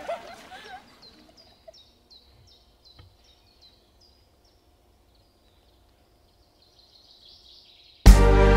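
Voices fading out, then a songbird chirping faintly in a quick run of short falling chirps, about four a second, for some three seconds. Loud music starts abruptly near the end.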